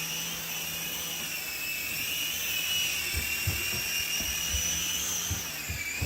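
Sky Rover Vigilante toy RC helicopter's small electric motors and rotors whining in flight, the high pitch wavering slightly with the throttle. From about halfway on, low thumps come in under the whine.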